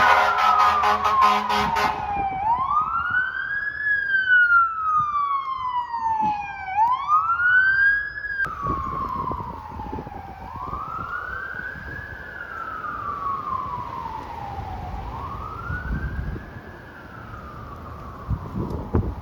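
Emergency vehicle siren in a wail pattern: each cycle rises quickly in pitch and then falls slowly, repeating about every four seconds. In the first two seconds it is joined by a loud, rapidly pulsing horn blast.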